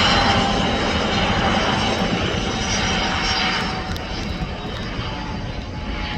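Mil Mi-17 helicopter running, its twin turboshaft engines giving a steady whine over dense rotor noise. The sound drops somewhat about four seconds in.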